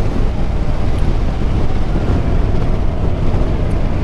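Motorcycle riding at speed: a steady rush of wind noise on the microphone over the running engine and road.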